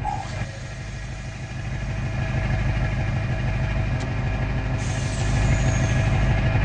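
Truck engine running, slowly growing louder, with a hiss joining about five seconds in.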